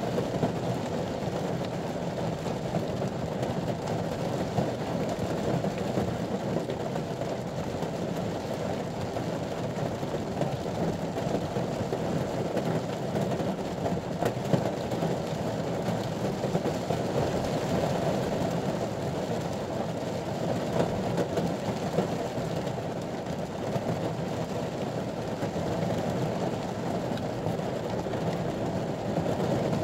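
Steady rain falling on the roof and windscreen of a ute, heard from inside the cabin.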